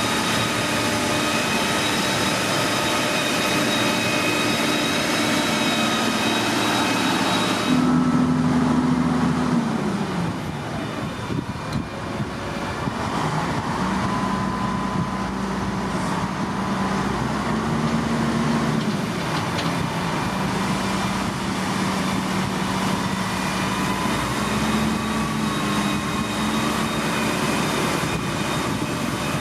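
Heavy diesel construction machinery running. About eight seconds in the sound cuts abruptly to another machine, whose engine pitch rises and falls several times as it works.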